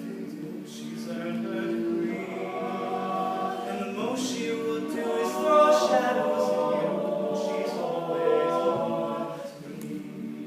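All-male a cappella vocal group singing in close harmony, with no instruments. The voices swell through the middle and ease off near the end.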